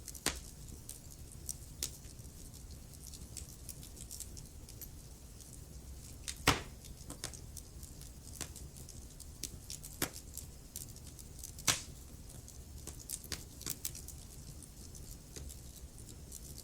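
Wood fire burning in a fireplace: a low steady rumble of flame with frequent small crackles, and a few louder pops, the loudest about six and a half seconds in.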